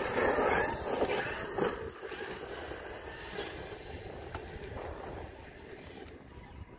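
Large electric RC truck driving over rough ground: a noisy rush of tyres and drivetrain, loudest in the first two seconds, then fading as it pulls away.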